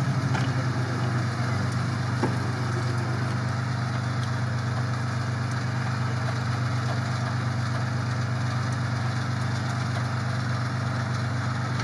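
Off-road vehicle engine idling steadily, an even low hum.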